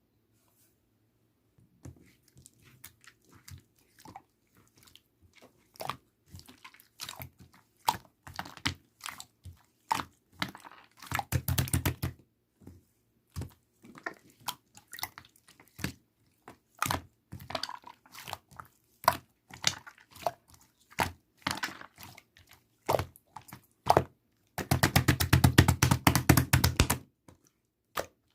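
Slime being pressed and worked by hand, giving sharp clicking and popping sounds, with two runs of rapid popping: a short one about eleven seconds in and a longer one near the end.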